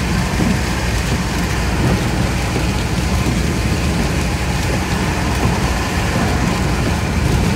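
Steady road and engine noise inside a moving car's cabin at highway speed, a constant low rumble with a hiss of tyres and wind.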